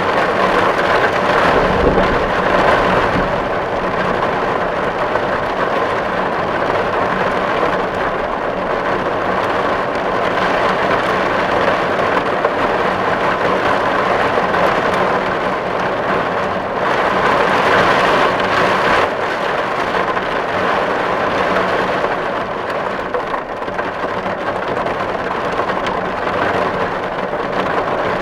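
Steady heavy rain drumming on a tin roof, swelling a little near the start and again a little past the middle. A brief low rumble sounds about two seconds in.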